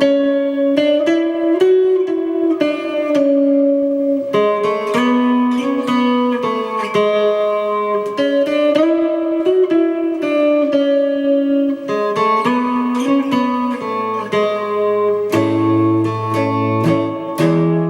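Kit-built electric guitar played through a Blackstar amplifier: a steady run of picked single notes and chords that ring on, with no singing.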